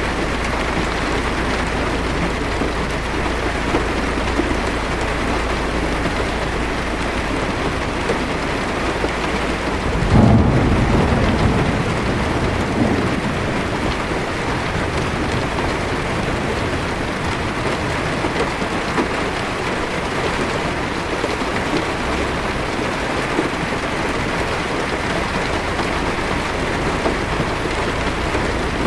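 Heavy rain beating steadily on a car's roof and windshield, heard from inside the car. About ten seconds in, a clap of thunder rumbles low and loud for a few seconds before fading back into the rain.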